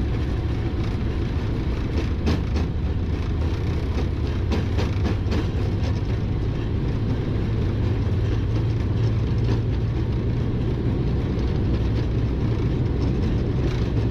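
Boeing 777-300ER on its takeoff roll, heard in the cockpit: a loud, steady rumble of the GE90 engines at takeoff thrust and the wheels on the runway. Runs of quick rattling knocks come around two to five seconds in as the aircraft accelerates toward V1.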